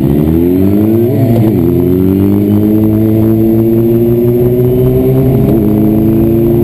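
Inline-four 600 cc sport bike engine pulling under acceleration, its pitch rising with a short break about a second in as it shifts up, then holding a steady pitch at cruising speed, with another brief dip about five seconds in.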